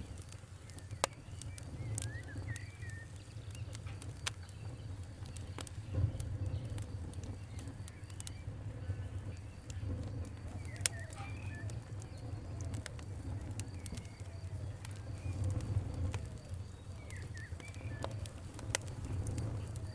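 A fire crackling, with irregular sharp pops over a steady low rumble. Faint short chirps come and go in the background.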